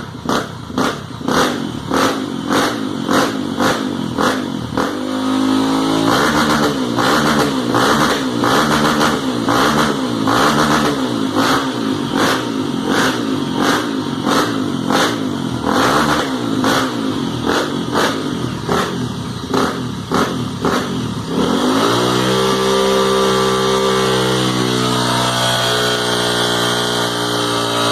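Honda XRE 300 single-cylinder engine through a Foco Racing exhaust tip, running with its revs rising and falling in quick, even blips. About 22 seconds in it revs up sharply and holds at higher revs.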